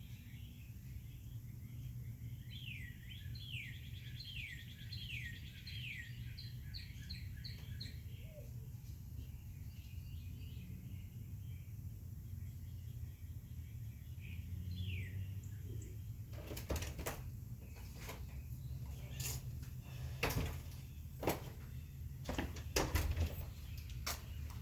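Wild birds singing: one bird gives a run of about six falling whistled notes, then a quicker series, with another call later. A steady low rumble sits underneath, and from about two-thirds in there is a scatter of sharp clicks and knocks.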